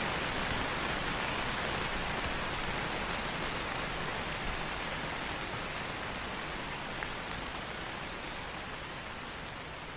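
Steady rain falling on rainforest foliage, a dense even patter with a few faint single drops standing out, slowly easing in level.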